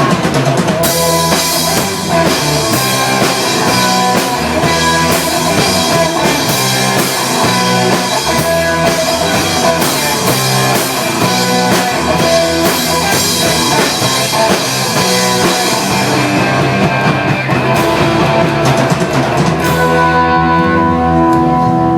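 Rock band playing an instrumental passage on drum kit and guitar. The cymbals drop out about two seconds before the end, leaving held guitar notes.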